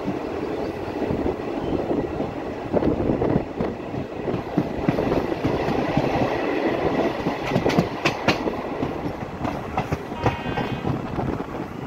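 Passenger train running on the rails: a steady rumble with wheels clicking over the rail joints, a cluster of sharper clacks about eight seconds in, and a brief high tone near the end.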